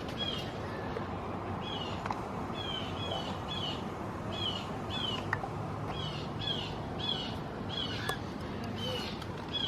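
An animal's repeated alarm calls: short, high, down-slurred notes, mostly in pairs, about one pair a second.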